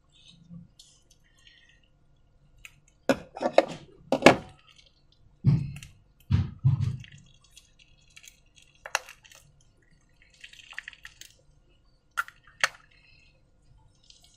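Slime being handled, giving a series of wet, sticky squelches and clicks, loudest a few seconds in, with two sharp clicks near the end.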